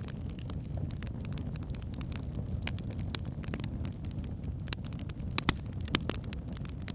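Wood fire burning in a fireplace: a steady low rumble of flames with scattered sharp crackles and pops, the loudest few coming together about five and a half seconds in.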